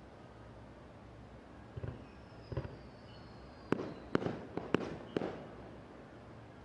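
Aerial fireworks bursting: two duller booms, then a quick run of five sharp cracks.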